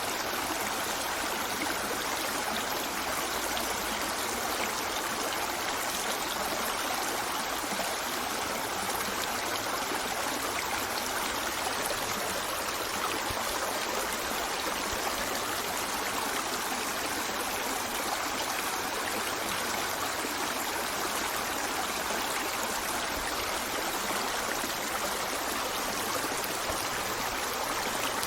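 Running water of a stream flowing steadily, an even rushing with no breaks or changes.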